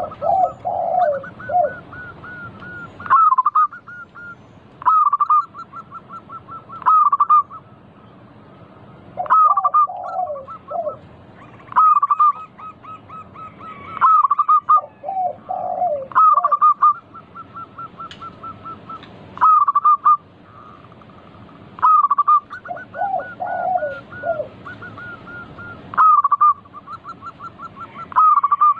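Zebra doves (perkutut) singing: phrases of rapid, even staccato cooing notes, repeated about every two seconds, some joined by a few lower falling notes.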